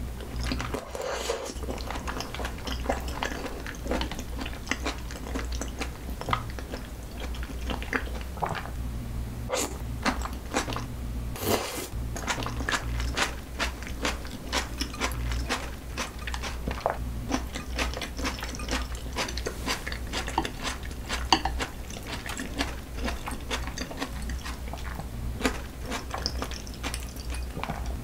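Close-miked eating: wet chewing and biting of thick-cut raw salmon, with many small crisp crunches and mouth clicks in an uneven run.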